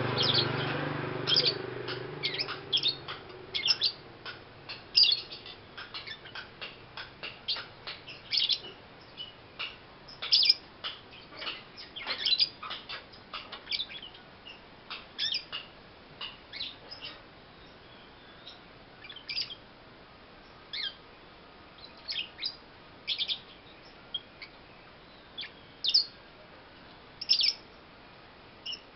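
Young lovebird chirping: many short, high chirps, coming thick and fast for the first half and more sparsely later.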